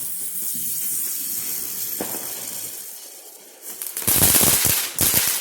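A consumer firework hissing as it sprays sparks, then a run of loud crackling bangs near the end.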